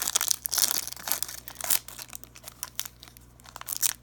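Wrapper of a trading card pack crinkling and tearing as it is opened by hand, with dense crackling in the first two seconds, a quieter stretch, and more near the end.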